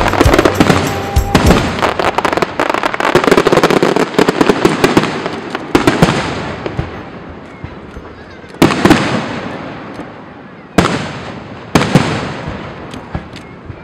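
Fireworks going off: a dense barrage of rapid bangs and crackling for about the first five seconds, then four separate loud bursts, each trailing off in a fading crackle.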